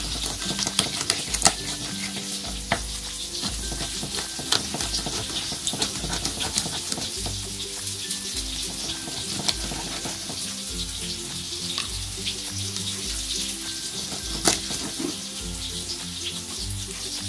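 Rice-flour-coated eggplant frying in hot oil: a steady sizzle with frequent crackles and pops. Soft background music with a low bass line plays underneath.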